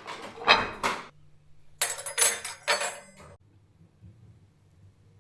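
Dishes and cutlery knocking and clinking as they are handled, in two clusters of sharp strikes, the second with a bright metallic ring. The clatter stops a little after the middle.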